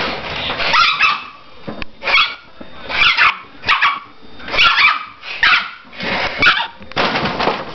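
A dog giving a rapid series of about eight short, high-pitched yelping barks, one every half second or so, agitated by a hissing sound he hates.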